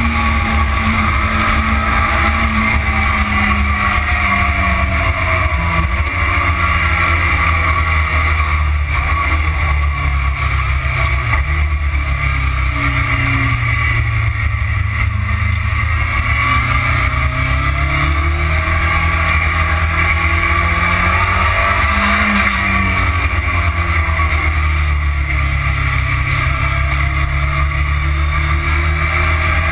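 Motorcycle engine under way on a track, heard from a tank-mounted camera over steady wind rush. The engine note falls and rises again twice, slowing into corners and accelerating out.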